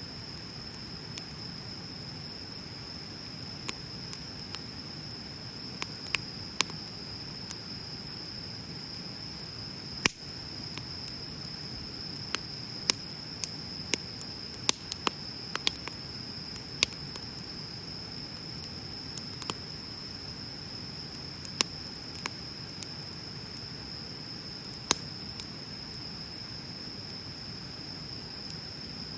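Wood bonfire burning: a low steady rush of flames with sharp crackles and pops every second or two, the loudest about ten seconds in. A steady high-pitched tone runs underneath.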